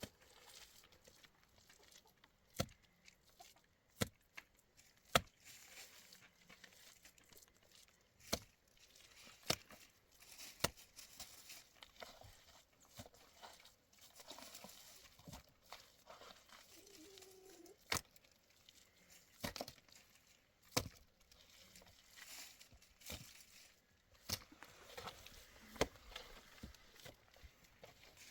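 Irregular sharp knocks, one every second or two, over a faint background, with a chicken clucking now and then.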